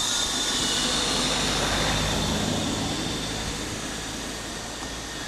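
Motorcycle on the move: wind rushing past the microphone over the running engine, a steady noise that slowly eases off.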